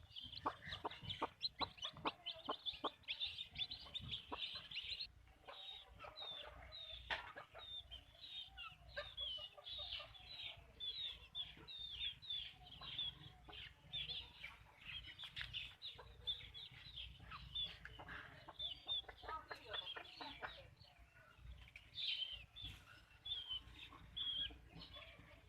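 Backyard chickens clucking and calling, with a steady stream of short, high chirps throughout.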